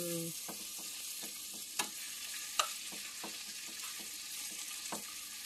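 Chicken feet sizzling in hot oil in a stainless steel skillet, stirred with a metal spoon that clicks and scrapes against the pan every so often, loudest twice about two seconds in.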